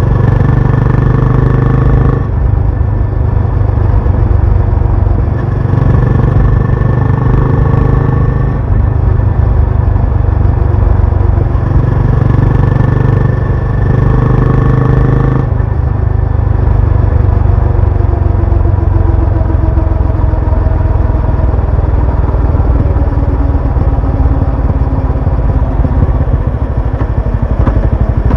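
Benelli Imperiale 400's single-cylinder engine and exhaust on the move. It holds steady revs in short stretches and eases off between them, then drops to a lower, wavering pitch about halfway through.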